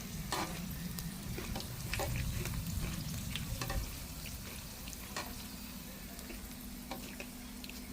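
Hot cooking oil in an electric frying pan sizzling steadily, with frequent small sharp pops and crackles as food fries in it.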